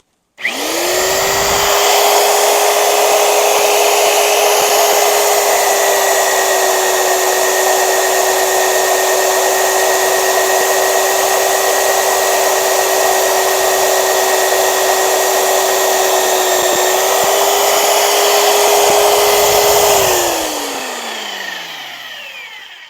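Magnetic-base drill boring a hole through steel: the motor starts, runs with a steady whine under load, then is switched off about 20 seconds in and winds down with falling pitch. The cut leaves a plug of steel, the mark of a hollow annular cutter.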